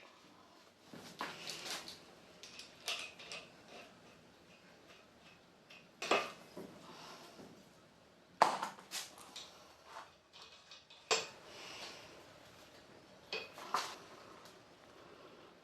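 Scattered metallic clinks and knocks, hard objects striking or being set down one at a time, with quiet between; the loudest knocks come about six seconds in and about eight and a half seconds in.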